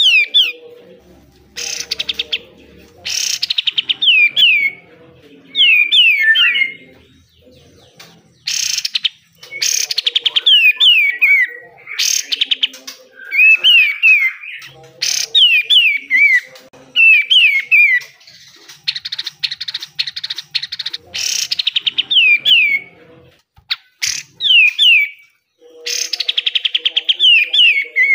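Kapas tembak (katem) songbird singing: short phrases of sharp downward-slurred whistled notes, alternating with fast harsh rattling bursts (the 'besetan' chatter), one long rattle about two-thirds of the way through.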